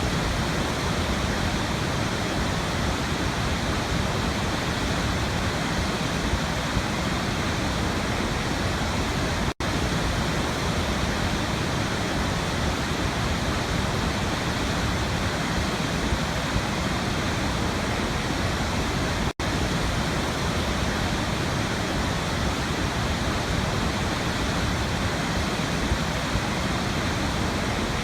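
Waterfall rushing, a steady even roar of falling water. It cuts out for an instant twice, about ten seconds apart.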